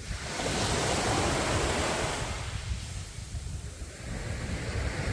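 Sea waves breaking and washing up a sandy beach: one wave swells in at the start, peaks over the next two seconds and ebbs away, with the next beginning near the end. Wind rumbles on the microphone throughout.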